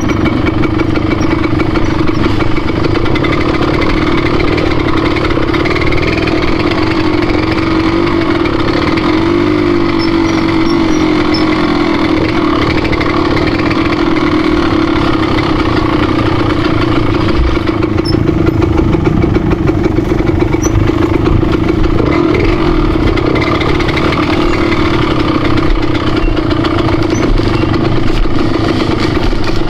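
A motor vehicle's engine running steadily with a constant drone, its pitch wavering slightly for a few seconds near the middle.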